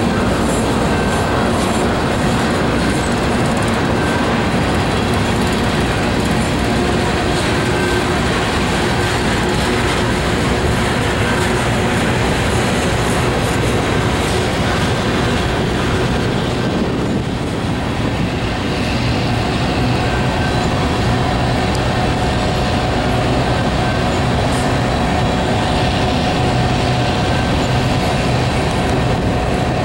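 Freight train of covered hopper cars rolling slowly past, with a steady rumble of steel wheels on the rails.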